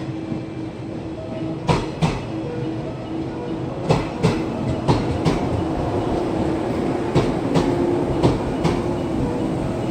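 Electric train running along the line, a steady hum under it and its wheels clacking over rail joints in quick pairs, five pairs in all.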